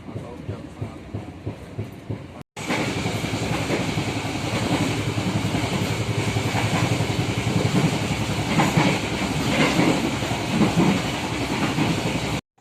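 Train running on the rails, with the steady rumble and rattle of wheels over track. A quieter stretch breaks off about two and a half seconds in, and much louder train noise starts abruptly and runs until it cuts off near the end.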